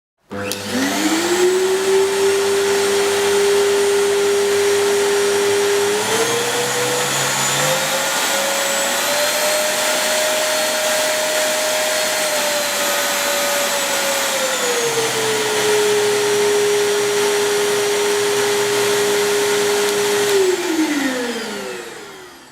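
AD 7010 household vacuum cleaner switched on, its motor spinning up with a rising whine and then running steadily. Its pitch climbs for several seconds in the middle and settles back, and near the end it is switched off and winds down with a falling whine.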